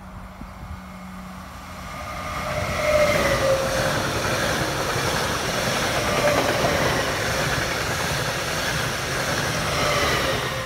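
Passenger train approaching and passing close by: its wheels rumble and clatter on the rails, swelling up over the first couple of seconds. A whining tone drops in pitch as the train draws level, and the sound starts to fade near the end.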